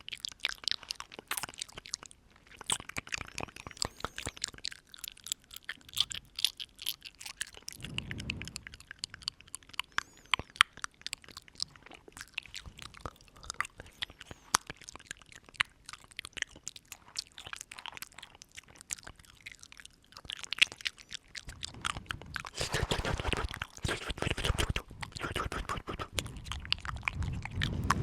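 Close-miked ASMR mouth sounds: a dense, irregular run of small clicks and smacks. Near the end comes a louder stretch of breathing right into the microphone.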